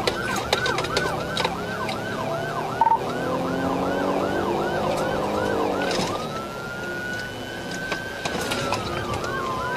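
Police car siren in pursuit: a rapid yelp, about three to four rising-and-falling chirps a second, switches about six seconds in to a slow wail that rises for two seconds and then falls.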